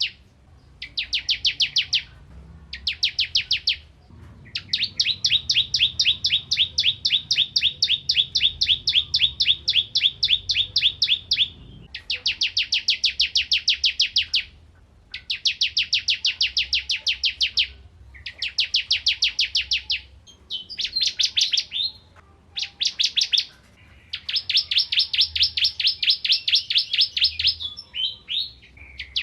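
Bar-winged prinia (ciblek kristal) singing energetically: trains of rapid, evenly repeated high notes, some short and some running for several seconds, broken by brief pauses.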